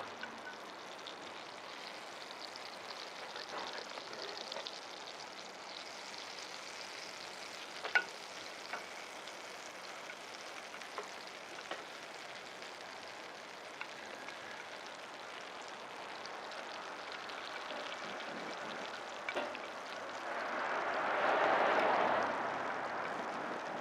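Food sizzling as it cooks over a charcoal fire, a steady frying hiss with scattered small pops. The sizzle swells louder for a couple of seconds near the end.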